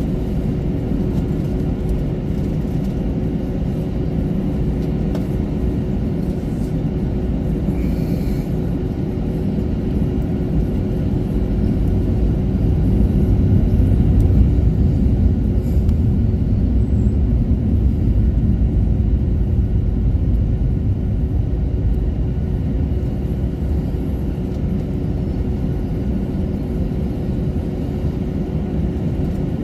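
Steady low rumble inside the cabin of an Airbus A321-200 taxiing on the ground, engines at idle, with a steady hum over it; the rumble swells a little about halfway through, then eases off.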